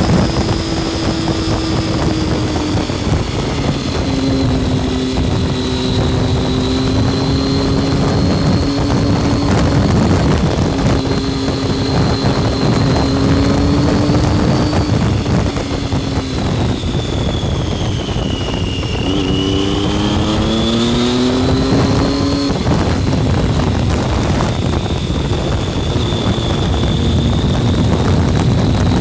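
Triumph Street Triple R's inline three-cylinder engine pulling at steady road speed under heavy wind rush, heard from on the bike. The engine note drops suddenly about three seconds in as it changes up, sags for a moment past the middle, then rises steadily as the bike accelerates and falls abruptly again with another upshift about three-quarters of the way through.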